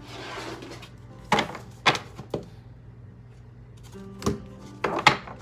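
Oracle cards being shuffled and handled: a brief rustle, then about six sharp card snaps and taps, over soft background music.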